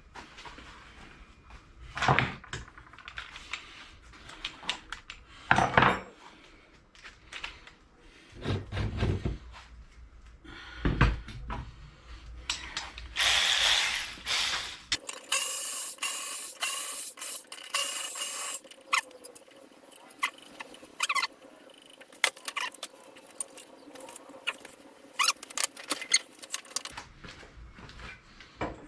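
Hand tools working on lawn mower parts: scattered clinks and knocks of metal, a few heavier thuds, and a stretch of scraping or rasping in the middle.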